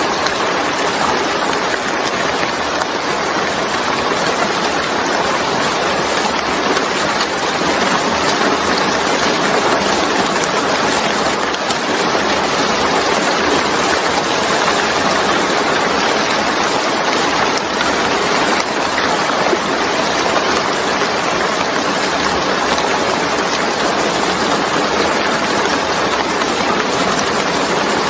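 Steady, heavy rain falling: a dense, even hiss with no breaks or distinct single drops.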